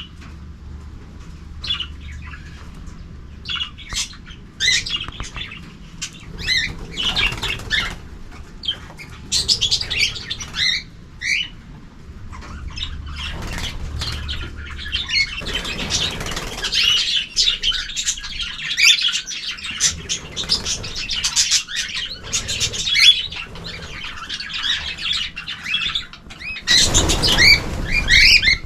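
Mixed aviary of budgies, canaries and cockatiels chirping and chattering in short bursts, busier in the second half, with a loud rustling burst near the end.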